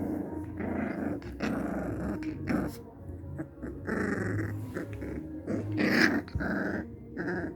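Aggressive dog growling and snarling in a string of short rough bouts, the loudest about six seconds in.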